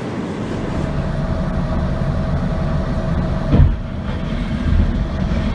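Train passing close by: a steady low rumble with a brief low thud about three and a half seconds in.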